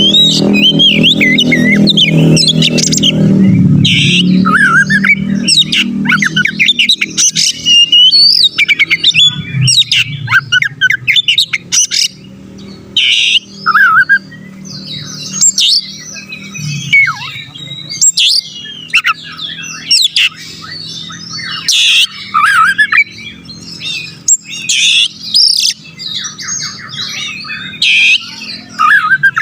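Oriental magpie-robin (kacer) singing a fast, varied song of whistles, chirps and harsh squawky notes, phrase after phrase. A low steady hum of music lies underneath, strongest in the first few seconds.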